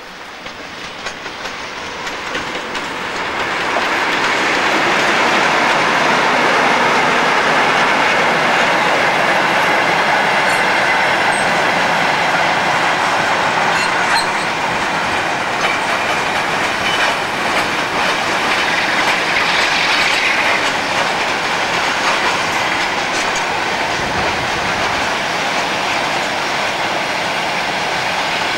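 A train passing close by, its wheels running on the rails; the noise builds over the first four seconds and then stays loud and steady.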